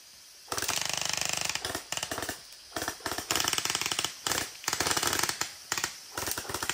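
Gel-ball (water bead) guns firing full-auto in several bursts, a fast, even rattle of shots with short pauses between bursts; the longest burst runs about a second and a half near the start.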